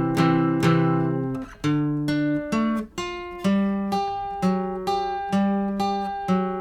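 Acoustic guitar strumming chords in an instrumental break between sung lines, about one strum a second with the chords changing as it goes.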